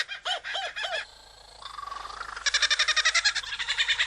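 Kookaburra laughing call: a fast cackling run of notes, about eight to ten a second, some swooping up and down in pitch. It comes in two bouts with a short quieter break about a second in.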